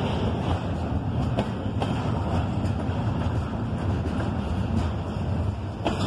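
Double-stack intermodal well cars rolling past: a steady low rumble of steel wheels on the rails, with a few sharp clacks.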